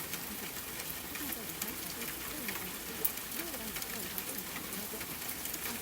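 Steady rain with scattered sharp drop ticks, one louder tick about three seconds in, over a faint, low murmuring voice.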